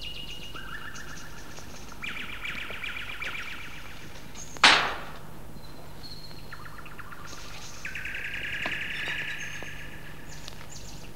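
Songbirds chirping in short repeated trills and whistled notes over a faint steady hum, with one sharp, loud crack a little under five seconds in.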